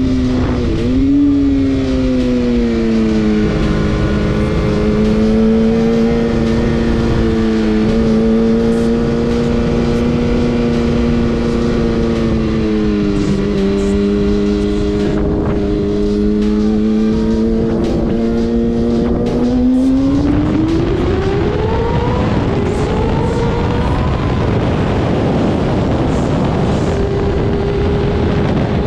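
Motorcycle engine running at a steady cruise with wind rushing past, then revving up about two-thirds of the way in, climbing twice with a gear change between, and settling at a higher steady pitch.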